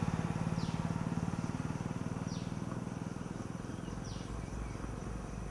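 Farm tractor engine running with a steady rapid pulse, slowly getting fainter. A bird calls a few short falling whistles over it.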